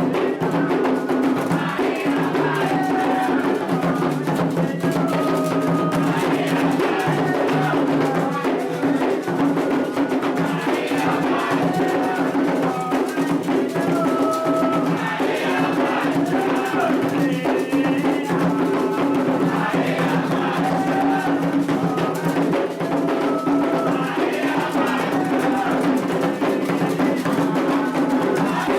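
Candomblé toque for Logun Edé: atabaque hand drums playing a dense, steady ritual rhythm, with short ringing metallic tones from an agogô bell over it.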